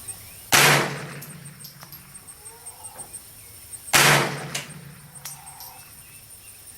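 Two rifle shots from a Smith & Wesson M&P 15-22 semi-automatic .22 LR rifle, about three and a half seconds apart, each a sharp crack with a short echoing tail.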